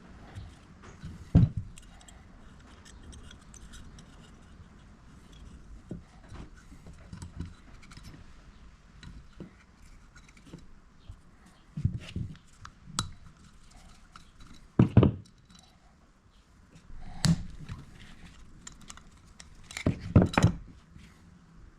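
Scattered metallic clinks and knocks of hand tools and small carburettor parts being handled, with a few louder knocks.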